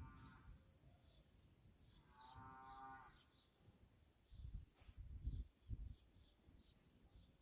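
A large animal calls twice in the distance: a short pitched call at the start, then a longer one about two seconds in. A faint high chirp repeats about once a second, and low rumbles come and go near the middle.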